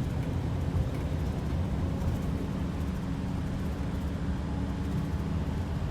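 A bus driving on the road, heard from inside the cabin: a steady low engine and road rumble.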